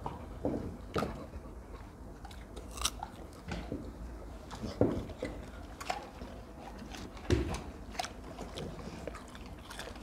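Crunchy chewing of firm guava pieces: irregular sharp crunches among quieter chewing.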